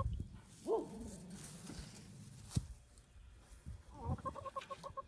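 Cornish Cross chickens clucking: a single short falling call about a second in, then a fast, even run of clucks, about eight a second, near the end. A sharp knock sounds once midway.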